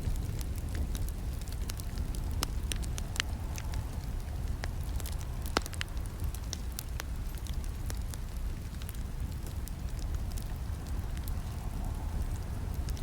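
Campfire crackling: sharp snaps and pops of burning wood at irregular intervals over a steady low rumble of the flames, with one louder pop about five and a half seconds in.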